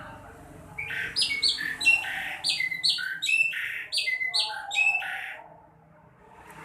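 Sekoci (golden-bellied gerygone) singing a fast run of sharp chirping notes that starts about a second in and ends a little after five seconds. The notes come about three to four a second, alternating between lower and higher pitches.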